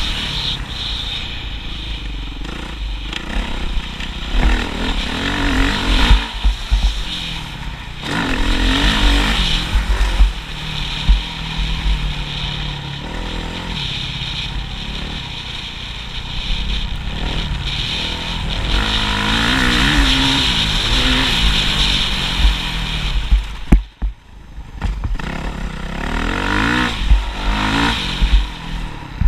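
Motocross motorcycle engine repeatedly revving up and falling back. Strong low rumble runs under it throughout, and the sound drops away sharply for a moment about 24 seconds in before the engine picks up again.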